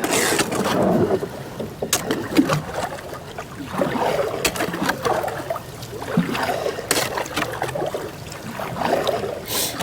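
Canoe forcing its way through thin, soft river ice: irregular sharp cracks and crunches of the ice breaking against the hull.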